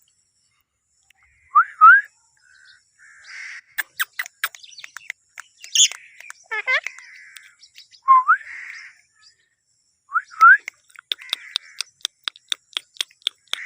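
Green ringneck parakeet (rose-ringed parakeet) calling: short rising whistles, chattering, a wavering warble that drops in pitch about halfway through, and fast runs of clicks.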